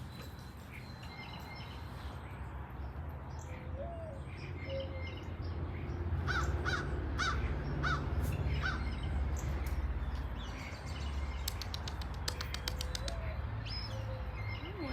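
Bird calling: a run of about six short, harsh calls in quick succession near the middle, then a rapid run of clicks a few seconds later, over a steady low rumble.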